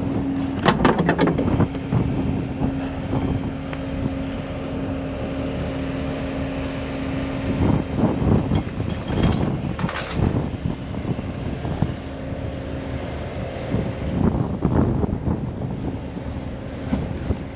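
A truck engine running steadily at a constant pitch, with wind buffeting the microphone. A few sharp clatters sound about a second in, around eight to ten seconds in and near the end, and the steady tone drops away about two-thirds of the way through.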